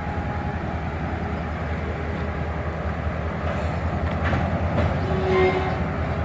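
Passenger railroad car rolling along the track, a steady low rumble of wheels and car body with some rattles and clicks; the level rises briefly about five seconds in.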